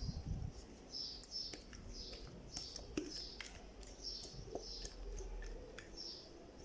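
A small bird chirping over and over, short high chirps about twice a second, with a low thump at the start and a few faint clicks.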